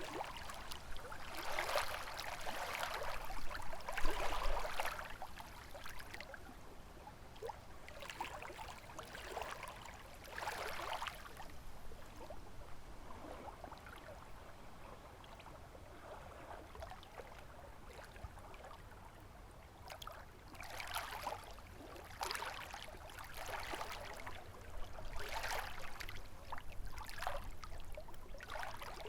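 Small lake waves lapping and splashing against the shore in irregular swells, over a low rumble of wind.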